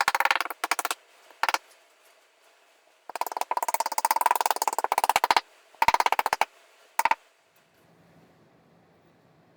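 Metal tack strip being hammered shut along an upholstered chair back, in several bursts of rapid blows. The longest burst runs about two seconds, midway through, and the strikes stop a couple of seconds before the end.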